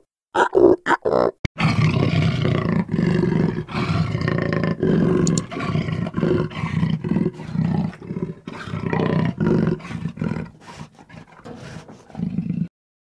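A black leopard growling: a long, rough, low rumble broken only by brief catches of breath, which cuts off suddenly near the end. It is preceded by a few short grunts in the first second or so.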